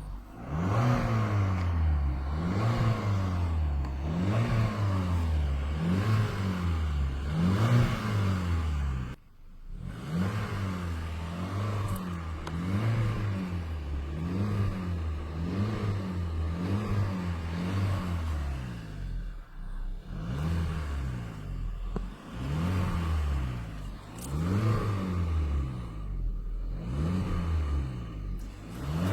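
Car engine being revved over and over by pumping the gas pedal, the pitch rising and falling about once a second. The revving breaks off briefly about a third of the way through, then carries on in the same rhythm.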